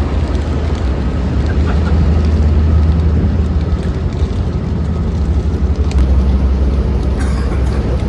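Train running with a loud, steady low rumble and hum. The hum drops slightly in pitch about six seconds in.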